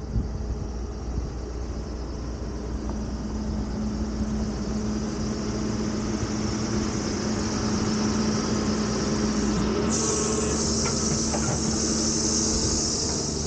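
A car engine running at low speed as the vehicle creeps along a rough dirt mountain track, with a steady hum. About ten seconds in, a high hiss starts suddenly and carries on.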